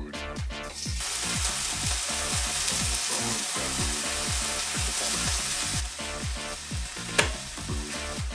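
Chicken strips sizzling in hot oil in a non-stick frying pan. The sizzle starts about a second in and drops away about two-thirds of the way through. Electronic background music with a steady beat plays throughout, and near the end there is one sharp crack as an egg is knocked on the pan's rim.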